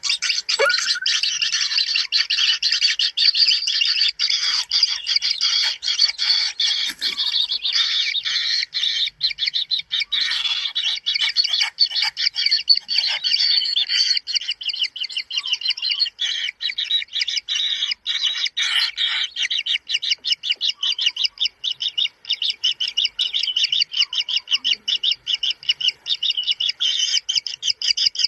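A kingfisher chick giving an unbroken run of fast, high, rasping chirps, many a second: the begging calls of a young kingfisher being fed.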